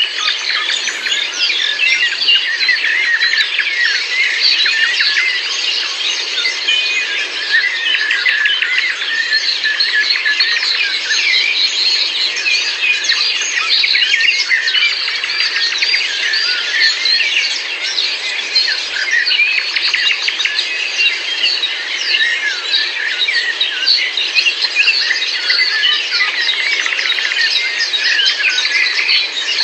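Dense chorus of many birds chirping and singing at once, a steady mass of overlapping high calls.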